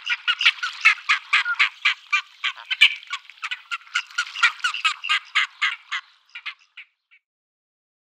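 A bird calling in a rapid series of short harsh squawks, about five a second, thinning out and stopping about seven seconds in.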